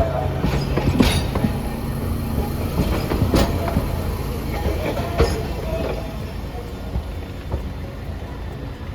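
Hiroshima Electric Railway streetcar rolling on the track: a low rumble and hum with several sharp wheel clacks over rail joints or points in the first six seconds, easing off toward the end as it moves away.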